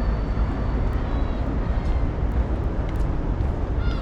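Outdoor city street ambience dominated by a steady low rumble, with faint distant voices and a few small clicks.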